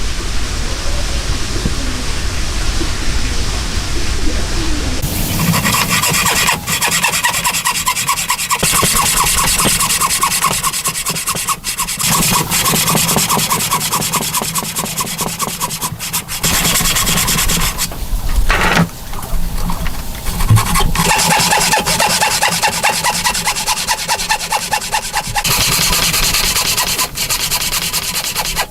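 Wood being worked by hand with rapid, rhythmic rasping strokes, like a saw or rasp cutting timber. The sound changes abruptly several times.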